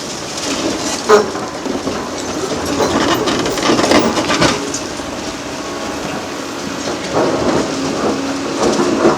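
Bridge demolition by excavator: concrete being crushed and broken, rubble crackling and clattering down, with a sharp crack about a second in and the excavator running underneath.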